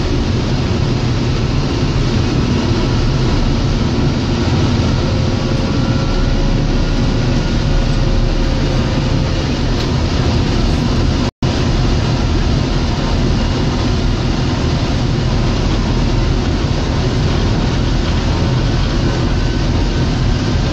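John Deere 624J wheel loader's six-cylinder diesel engine running steadily while it plows snow, with a momentary dropout in the sound about halfway through.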